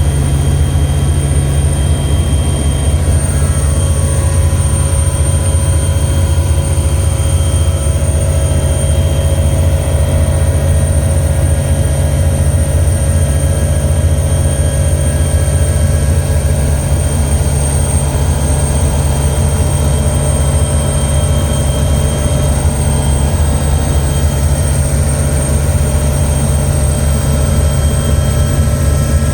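Helicopter in flight heard from inside the cabin: a loud, steady low drone of engine and rotor with faint steady whining tones over it.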